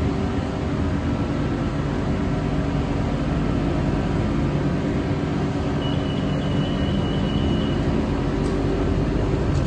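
BTS Skytrain EMU-B1 train interior while running: a steady rumble with low hums from the motors and running gear. About six seconds in, a thin high whine lasts about two seconds.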